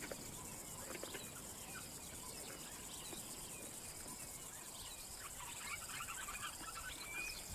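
Faint, scattered bird chirps over a quiet outdoor background.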